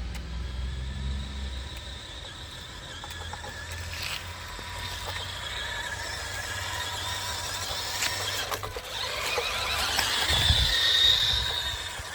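Radio-controlled model cars running: a high-pitched motor whine that rises and falls, growing loudest as a car passes close about ten seconds in.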